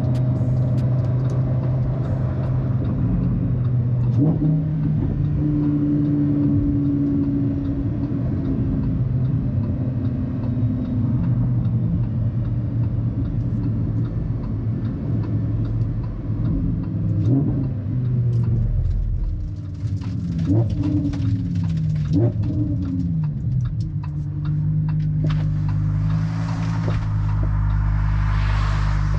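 Lamborghini Huracán Evo's V10 engine running while driving, with a few brief rises and falls in revs through the middle, settling to a steady low drone near the end.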